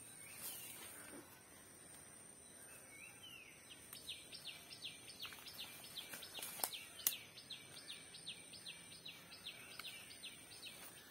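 A bird calling a fast, even run of short falling chirps, about three or four a second, that starts about four seconds in, over a faint steady high tone. Two sharp clicks come near the middle.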